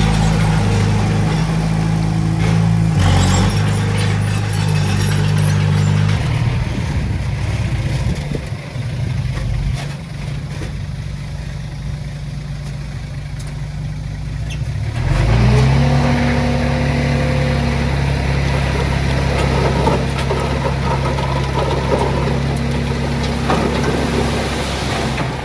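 Heavy diesel engine running steadily, easing off about six seconds in, then revving up about fifteen seconds in and holding at the higher speed.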